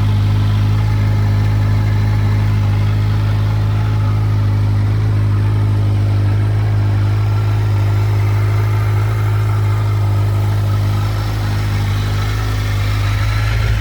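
Kawasaki Versys 1000 SE's inline-four engine idling steadily with an even hum.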